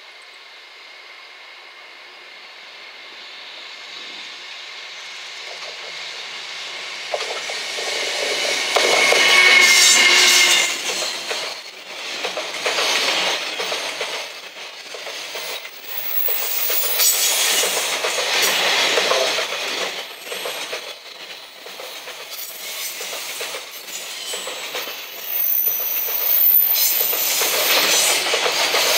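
A JR Freight EF210 electric locomotive hauling a long container freight train up a steep grade approaches, growing louder to a peak about ten seconds in as it passes close. The container wagons then roll by with repeated clacking of wheels and thin, high-pitched wheel squeal on the tight curve.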